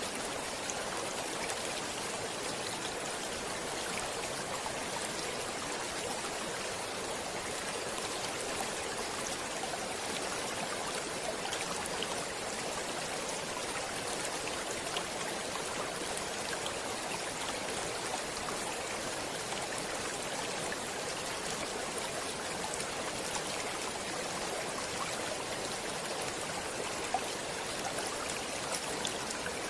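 Stream water flowing steadily: an even rushing with small splashes and drips ticking through it.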